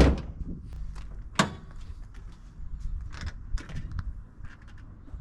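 A loud sharp knock with a short ring, a second knock about a second and a half later, then lighter clicks and rattles of things being handled.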